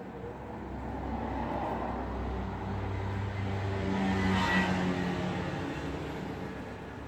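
A motor vehicle driving past on a road, its engine and tyre noise building to a peak about four and a half seconds in and then fading away.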